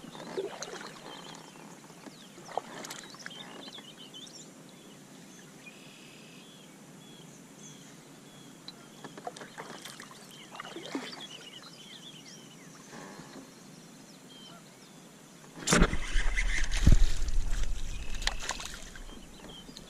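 Scattered short bird calls over a quiet background. About 16 seconds in, a loud rush of low rumbling noise hits the microphone for about three seconds, then dies away.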